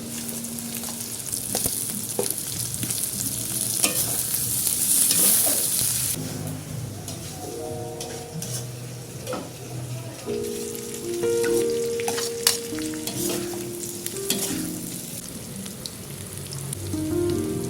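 Peanut peyek batter sizzling as it fries in hot oil, the sizzle swelling about four to six seconds in, with scattered clinks of a utensil against the pan.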